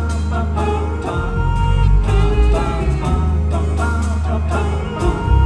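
Live pop-rock band playing, with harmony singing over bass and drums.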